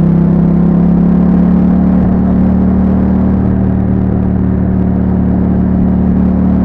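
2021 Yamaha MT-07's 689 cc parallel-twin engine running through an Akrapovic exhaust with a YAHOM dB killer, held at fairly steady revs while riding.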